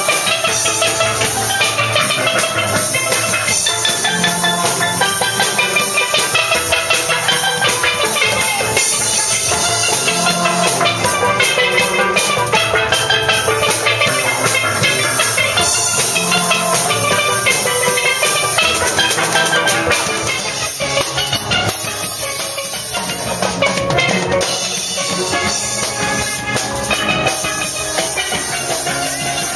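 Steel band playing live: steel pans carrying a fast melody over a drum kit keeping the beat.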